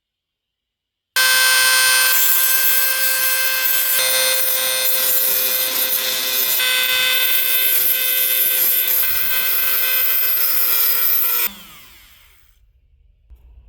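Rotary power tool starting about a second in and running steadily at high speed with a sustained whine, then switched off near the end and spinning down with a falling pitch.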